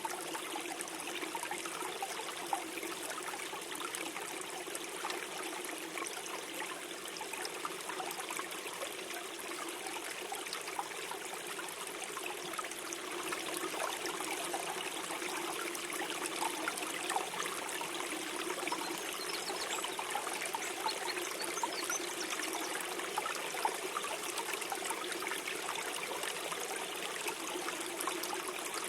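A small stream flowing steadily over stones, gurgling and trickling without a break.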